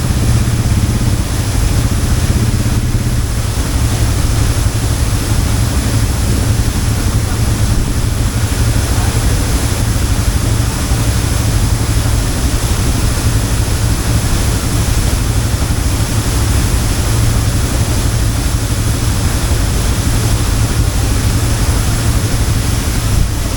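ATV engine running steadily under a constant rush of water noise, with a heavy low rumble throughout.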